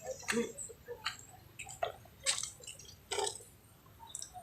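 Water splashing and dripping in irregular short bursts as a dog is bathed, about five splashes over a few seconds.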